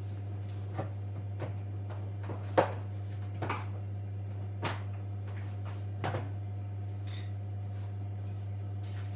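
Scattered knocks and clicks of tools and parts being handled while a washing machine is worked on, one sharp knock standing out about two and a half seconds in and a short metallic ring near the end, over a steady low hum.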